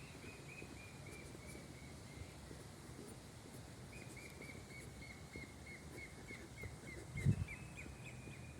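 A bird calling in long runs of short, evenly repeated high notes, about three a second, with a pause of under two seconds between the runs. A single low thump sounds near the end.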